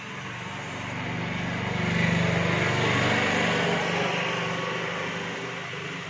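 A motor vehicle passing by, its engine growing louder to a peak about two to three seconds in and then fading away.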